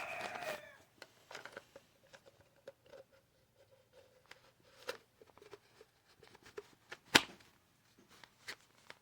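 Light handling noises: scattered small clicks and rustles, with one sharp click about seven seconds in.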